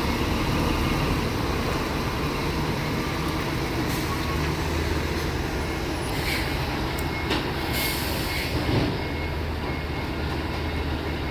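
Steady low rumble of a heavy vehicle running, with a few short hissing bursts about six to eight seconds in.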